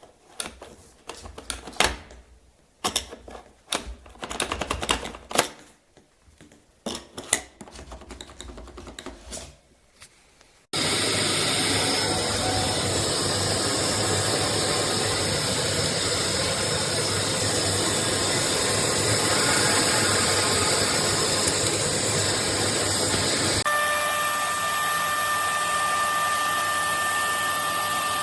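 A series of sharp clicks and knocks. Then, about ten seconds in, a Kärcher WD 6 wet-and-dry vacuum starts abruptly and runs with a steady rushing noise. Near the end the sound shifts and a few steady whistling tones ride over it.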